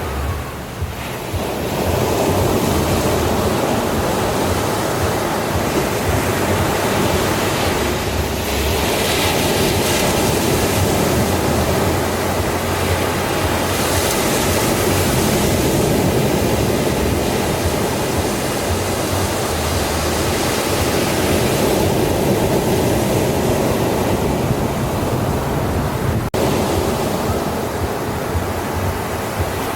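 Sea surf: waves breaking and washing continuously on a beach, swelling and easing every few seconds.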